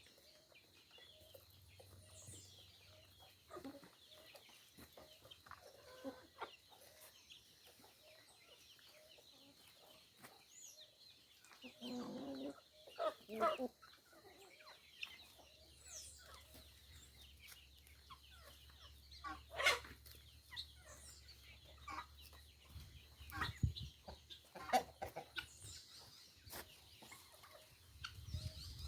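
Chickens clucking now and then, with a few sharp clicks or knocks in between.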